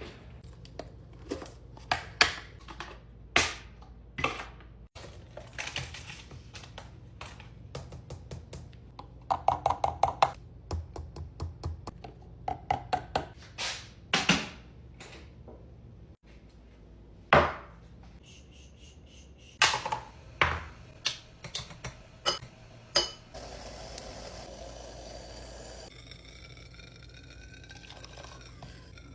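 Dishes and utensils being handled: a long series of sharp clinks and knocks, quick runs of them about 10 and 13 seconds in. Near the end, water runs steadily.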